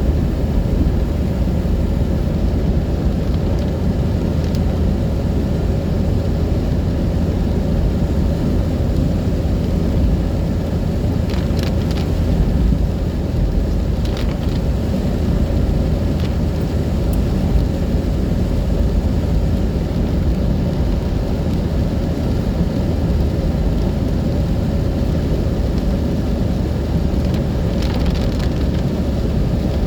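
A car driving in rain: a steady low rumble of engine and tyres with rain noise over it, and a few brief clicks or knocks now and then.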